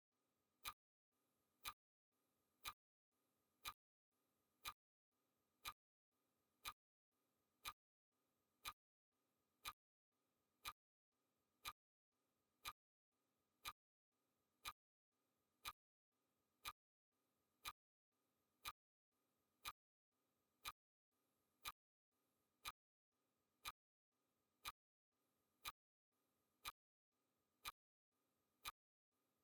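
Clock-ticking sound effect: a faint, sharp tick once every second, evenly paced.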